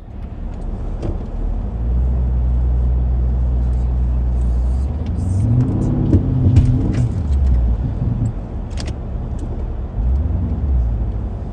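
Porsche Cayenne's engine revving under load as the SUV pulls on a kinetic rope tied to a fallen tree. A steady drone builds from about two seconds in, climbs in pitch around the middle, falls back, and swells again near the end, with a few sharp clicks.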